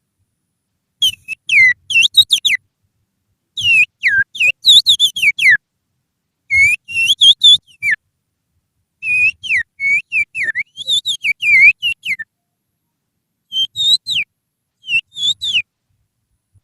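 Finger whistle blown with the little finger, imitating the song of an oriental magpie-robin (kacer) as a lure call: quick phrases of chirping, swooping notes in six bursts with short pauses between.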